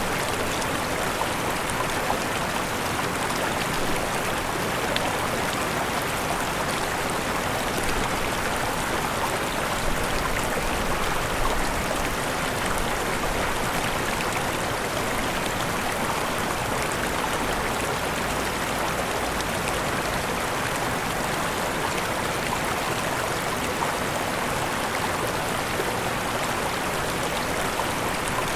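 Waterfall: falling water splashing and rushing in a steady, even hiss with fine spattering detail.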